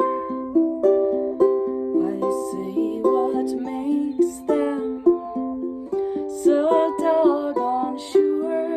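Plucked string instrument picking a melody of ringing notes, a new note about every half second, in an instrumental passage with no singing.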